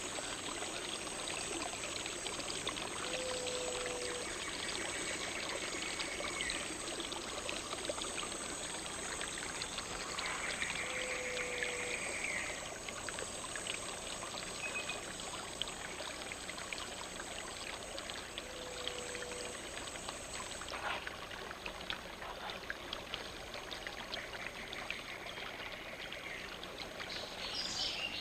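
Stream water running steadily at a river's edge. A short low call and a longer buzzing, trilled call from an unseen animal repeat every several seconds over it, with a quick run of clicks near the end.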